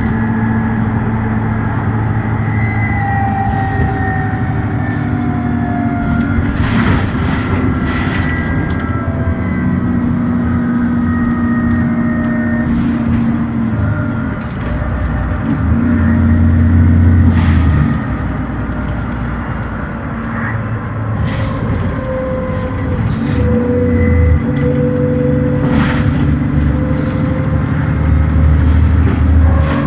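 Dennis Trident double-decker bus engine running as the bus slows, then changing down from fourth to third gear, the engine note swelling with each downshift. Occasional short rattles and knocks.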